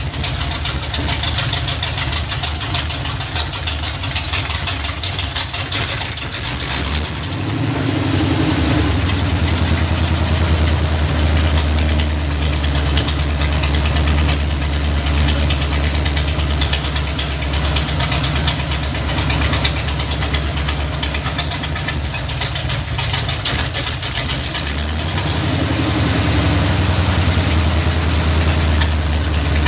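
Chevy 305 small-block V8 running steadily, a deep drone with a dense clatter on top. The engine gets louder about seven seconds in and again near the end.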